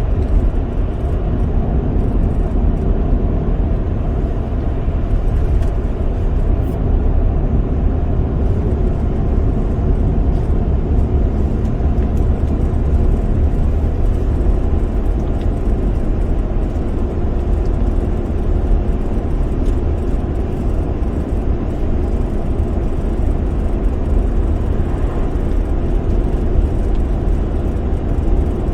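Steady road noise inside a moving car: low tyre and engine rumble at a constant cruising speed.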